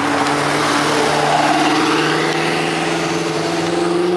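A car engine running loudly, its revs climbing slowly and steadily.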